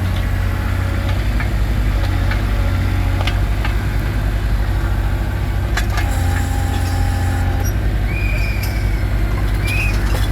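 Motor of a kid-operated digger machine running steadily with a pulsing low drone. A brief whine a little past halfway comes as the arm is worked, with a few light clicks from the controls.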